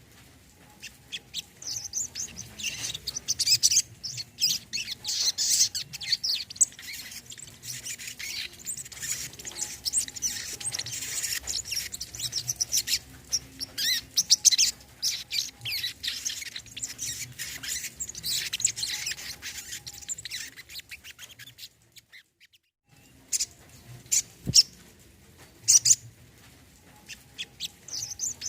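Brown-throated sunbird (kolibri kelapa) song: a dense, rapid run of high chirps and twitters, broken by about a second of silence roughly three-quarters of the way through.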